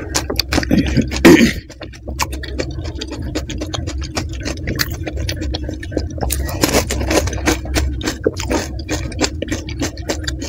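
Close-miked crunching and chewing of crisp panipuri (golgappa) shells filled with spiced water and topped with whole green chillies: many short sharp crunches, with the loudest one about a second in as a whole puri is bitten.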